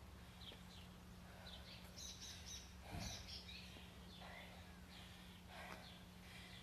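Faint birds chirping over a steady low hum, with one soft thump about three seconds in.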